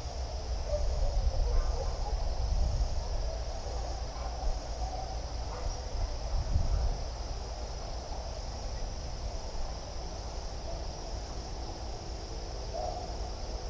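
Steady chorus of insects, cricket-like, trilling without pause at a high pitch, over a low rumble.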